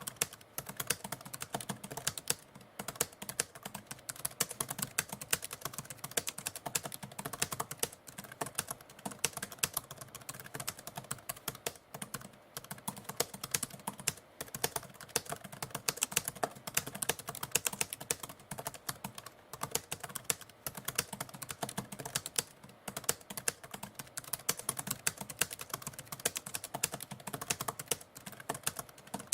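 Typewriter keys clacking in fast, continuous typing, many strikes a second with brief pauses now and then.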